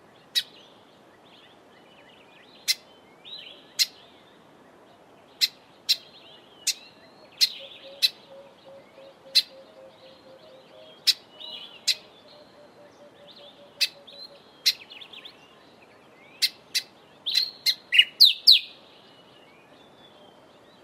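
Grey sunbird calling: sharp, very short chip notes at irregular intervals, with soft scratchy twittering between them, running into a quick cluster of chips near the end.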